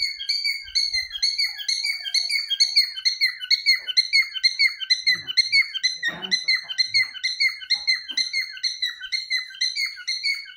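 Caged pet birds calling without a break, a fast run of short, high chirps several times a second. A few faint knocks come about four to seven seconds in.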